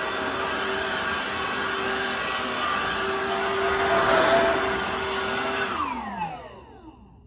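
Dirt Devil Versa cordless stick vacuum's motor running with a steady whine, then switched off near the end, its pitch sliding down as it spins down.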